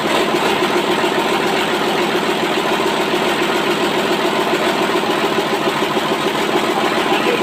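Engine with a newly replaced piston running steadily at idle, with an even, rapid beat that holds the same speed throughout.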